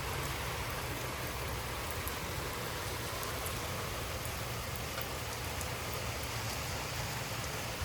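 Heavy thunderstorm rain pouring steadily, an even hiss with scattered drop ticks.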